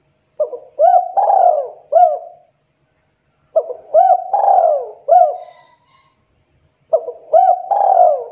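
Spotted dove cooing: three repeated coo phrases, each of about four notes with one longer falling note in the middle, coming roughly every three seconds. The last phrase runs on past the end.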